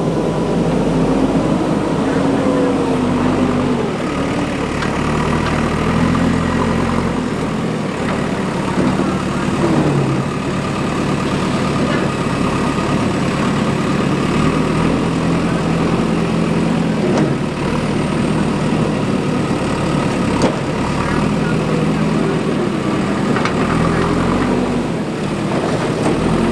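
Diesel engine of a JCB 3DX backhoe loader working, its pitch rising and falling repeatedly as it revs up and settles back.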